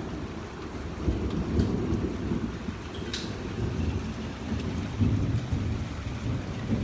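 Thunder rumbling long and low, swelling about a second in and loudest around the middle, over steady heavy rain.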